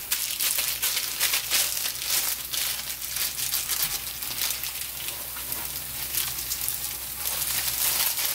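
Hotteok frying in oil in a pan, the oil sizzling with a steady spatter of fine crackles.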